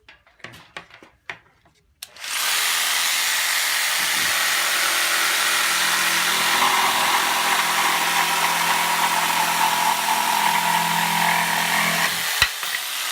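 Bosch JS572EB jigsaw cutting wood with the orbital action off and the chip blower off. After a few light clicks it starts about two seconds in, runs steadily for about ten seconds, and stops suddenly, followed by one click.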